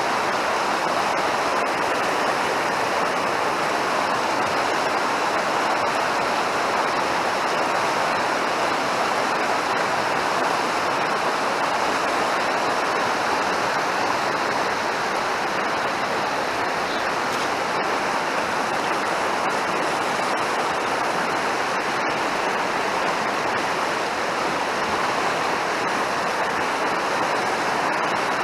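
Mountain stream rushing steadily, a constant loud water noise.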